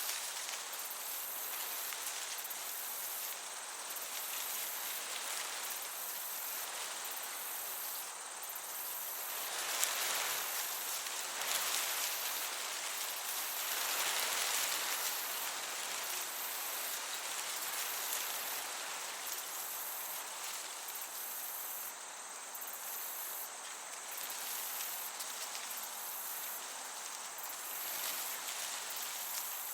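Meadow crickets chirping steadily over a soft breeze, the breeze swelling briefly about ten and fourteen seconds in.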